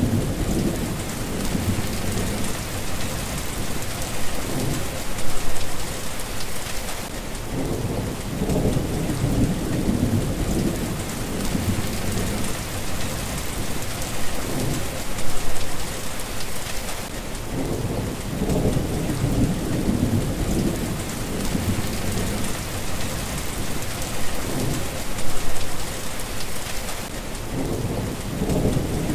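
Steady rain with low rolling thunder throughout, swelling about every ten seconds.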